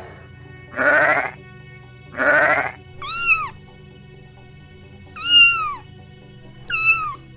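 Two quavering bleats, then a cat meowing three times, each meow rising and falling in pitch, over steady background music.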